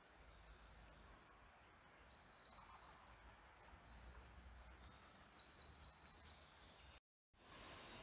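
Faint songbird song: several quick trills of high repeated notes over a quiet, steady background hiss. The sound cuts out completely for a moment about seven seconds in.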